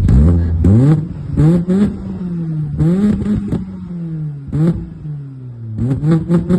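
Car engine with a 4-2-1 exhaust header, straight-through resonator and FOX muffler, revved in short throttle blips: each blip rises quickly and the note falls slowly back toward idle. Near the end comes a rapid run of several blips in a row.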